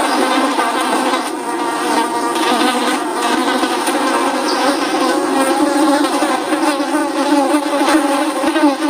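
Many flies buzzing at once, a continuous, dense drone of overlapping wing-beat tones that waver in pitch.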